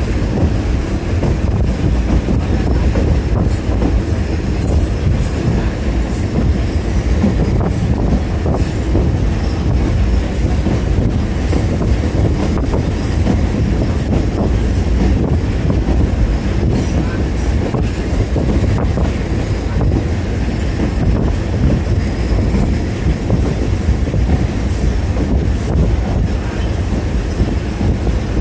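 Train running steadily along the track, heard on board: a continuous low rumble with the scattered clatter of wheels on the rails.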